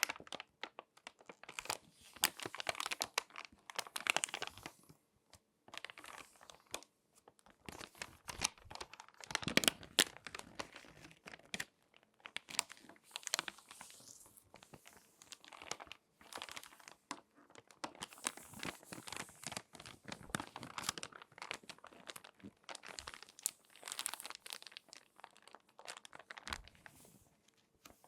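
Crinkly glossy magazine pages being folded and creased by hand, giving irregular spells of sharp crackling and crinkling with short pauses between them.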